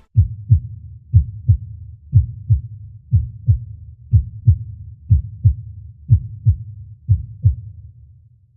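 Heartbeat sound effect: low paired 'lub-dub' thumps, about one pair a second, eight beats in all, fading near the end, used as a suspense effect.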